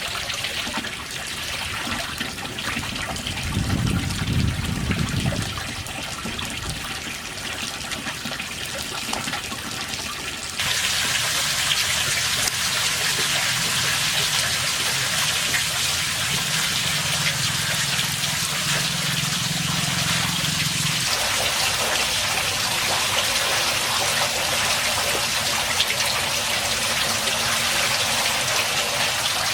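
Water running and splashing steadily. It turns suddenly louder and brighter about ten seconds in. A low hum comes and goes underneath.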